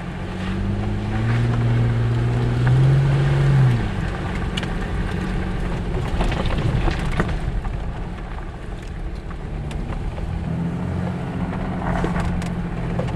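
A vehicle's engine pulling through mud on a dirt road. Its note climbs for the first few seconds, then drops back and runs steadily, with scattered knocks and clatter from the tyres and body.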